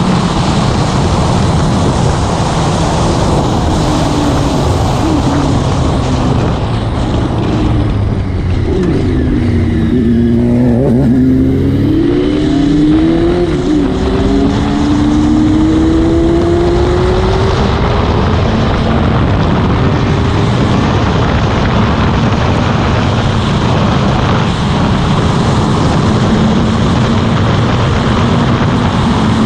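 Motorcycle running at road speed, its engine note under heavy wind rush. From about eight to sixteen seconds in, several engine tones glide up and down together.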